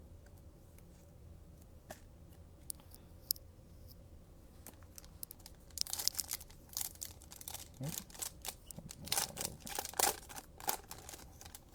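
Trading-card pack wrapper being torn open and crinkled. A few faint clicks come first, then a dense run of sharp crackles about six seconds in.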